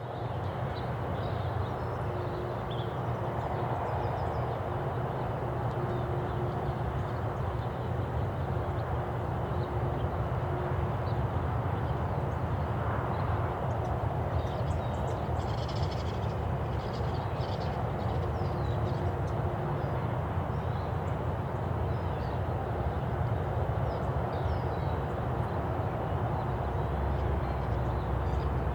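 Outdoor park ambience: birds calling now and then, with a cluster of calls about halfway through, over a steady low rumble.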